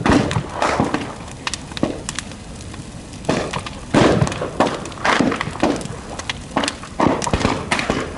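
A large bonfire crackling and popping, with many sharp cracks and snaps at irregular intervals.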